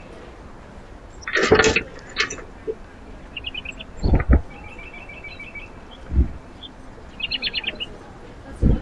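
Small birds chirping and calling at a backyard feeder, including rapid even runs of high notes, with a few short low knocks in between.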